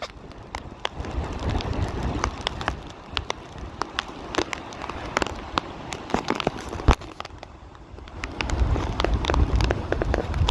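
Cold rain hitting close to the microphone as many irregular sharp ticks over a steady wash, with wind buffeting the microphone as a low rumble that grows stronger near the end.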